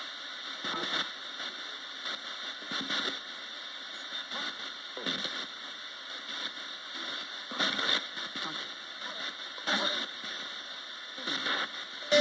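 Roberts radio scanning across the band as a spirit box: a steady hiss of static broken every second or two by short chopped snatches of broadcast sound.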